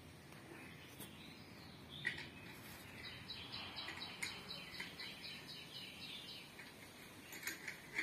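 Birds chirping faintly, with a steady run of repeated high notes, about four a second, in the middle for around three seconds. A couple of sharp clicks come through, one about two seconds in and one at the end.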